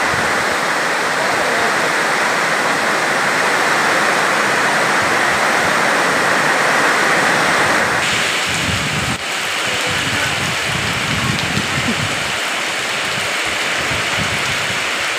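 Heavy rain pouring down steadily in a loud, even rush, its sound shifting slightly about eight seconds in.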